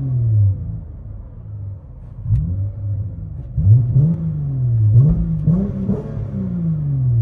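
Dodge Challenger 3.6L V6 with its resonators cut off and J-pipes fitted, revved from inside the cabin: the engine note climbs quickly and falls back to idle several times.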